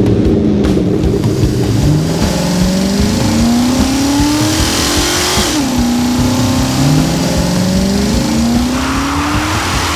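Car engine accelerating. Its pitch climbs steadily for several seconds, drops sharply about five and a half seconds in like a gear change, then climbs again.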